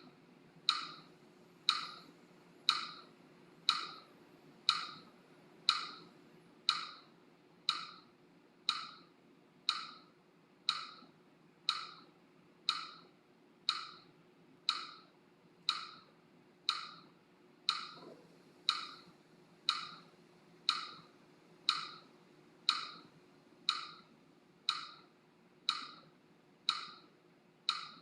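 Steady ticking, about one short woody click a second, each with a brief ring, keeping an even beat.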